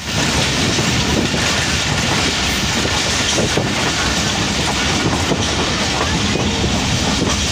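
Subak Raftar Express passenger train running along the line: a loud, steady rumble of wheels on the rails, with a few faint clicks from the track.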